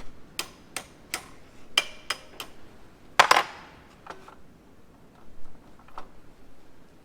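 Hand tools and metal parts clinking while a slip clutch is worked off a corn head gearbox: a quick run of sharp metallic clicks, one louder clank with a brief ring about three seconds in, then a few lighter taps.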